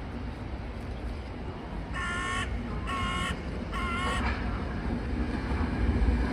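A crow cawing three times, about a second apart, each caw short and harsh, over a low rumble that grows louder near the end.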